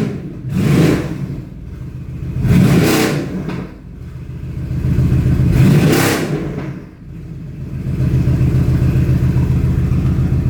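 Mercedes-AMG GT R's twin-turbo V8 revved in three throttle blips, each rising and falling, about two to three seconds apart. It then settles into a steady idle for the last couple of seconds.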